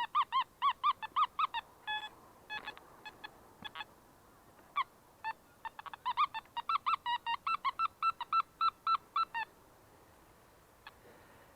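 Metal detector beeping on a target: a rapid run of short beeps at a steady pitch, about five a second, breaking into a few scattered single beeps and then picking up again before it stops.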